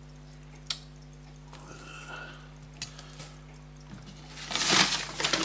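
Small tools and watch parts handled on a workbench: a single sharp click, a few faint clicks, then a louder clatter near the end, over a steady electrical hum.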